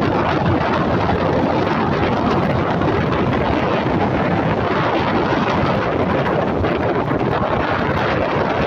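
Strong wind buffeting the microphone in a steady, loud rush, mixed with the surf of big waves breaking.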